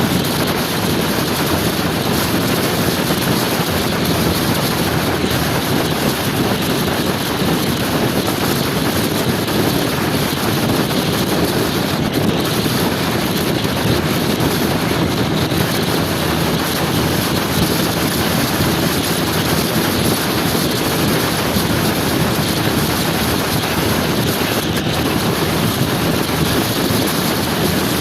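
Steady wind rush on the microphone over the running engine of a motor scooter being ridden at a constant speed.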